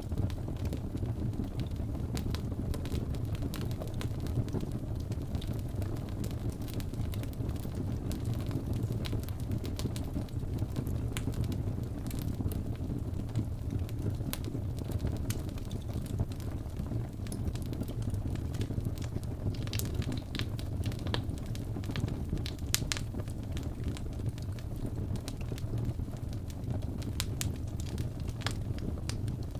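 Wood fire burning with a steady low rumble and frequent sharp crackles and pops, thickest around two thirds of the way through.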